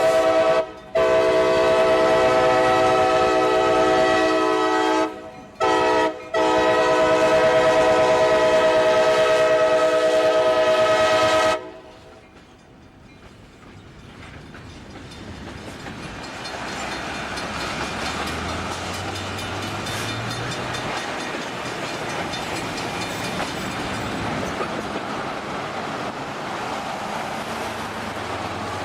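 Locomotive air horn blowing a chord of several notes in a long-long-short-long pattern, the grade-crossing signal, which stops about twelve seconds in. The rumble and clatter of the train's wheels on the rails then builds up and goes on steadily.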